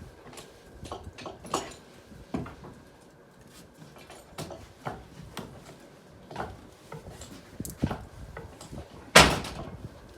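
Scattered metallic knocks and clanks at irregular intervals, with one loud bang about nine seconds in.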